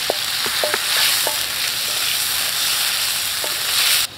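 Snails frying in hot oil in a metal wok over a wood fire, sizzling steadily while a wooden spatula stirs them, with a few light clicks as the shells are turned. The sizzle cuts off suddenly near the end.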